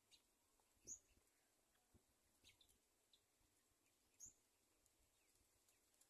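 Near silence broken by a few faint, short, high bird chirps that slide downward, the two clearest about a second in and about four seconds in.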